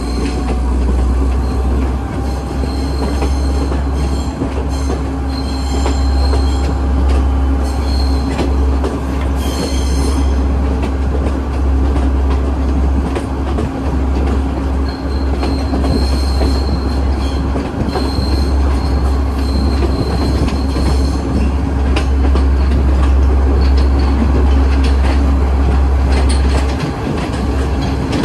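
Passenger train running, heard from inside the carriage: a heavy low rumble and hum with scattered clicks of the wheels over the rail joints. A high, thin wheel squeal comes and goes several times, mostly in the first ten seconds and again around the middle.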